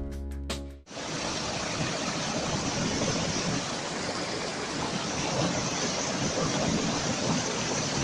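Plucked-string music cuts off about a second in, giving way to a steady rushing noise.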